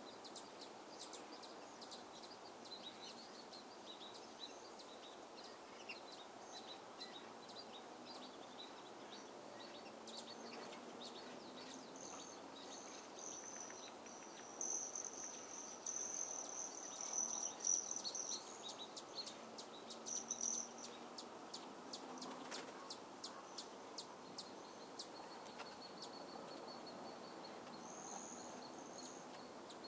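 Faint outdoor ambience of birds chirping and calling: many quick high chirps, with a longer, louder high call in the middle and a thin held whistle near the end, over a steady hiss.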